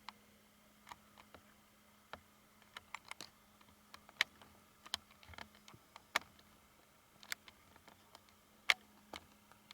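Irregular sharp clicks and ticks, about twenty scattered unevenly, the loudest about four seconds in and near the end, over a faint steady hum.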